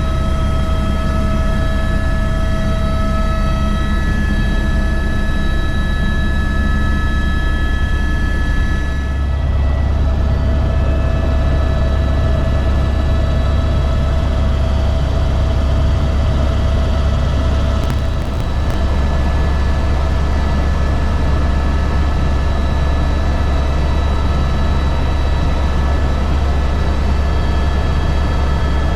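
Helicopter in flight: a loud, steady low drone of the rotor with a constant high whine from the turbine and gearbox. The whining tones shift about a third of the way through, then hold steady again.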